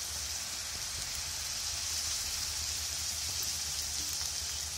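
Lemon juice poured into a hot pan of frying chickpeas, with a steady sizzling hiss.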